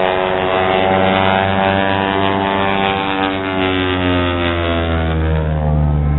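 A loud engine passing close by at speed, a steady droning note whose pitch falls as it goes past, from about three seconds in to the end.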